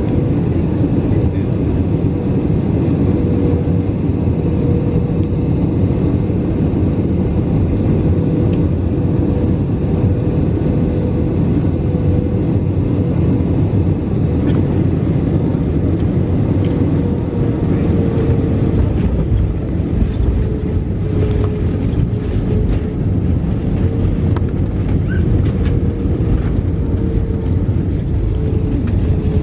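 Steady roar of an Airbus A319's engines and airflow heard inside the passenger cabin, with a held hum that wavers slightly in pitch. A few faint rattles or clicks come in over the second half.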